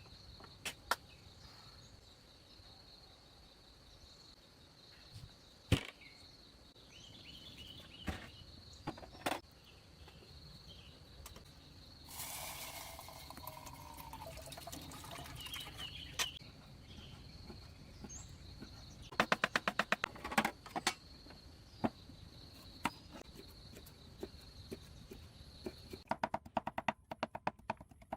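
Steady high insect trill in the background, with scattered sharp knocks and taps. Partway through there is a brief rapid clatter, and a fast rhythmic ticking near the end.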